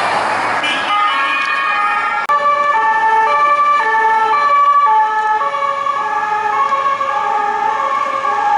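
French two-tone police siren alternating between a high and a low pitch, with a rush of traffic noise in the first second.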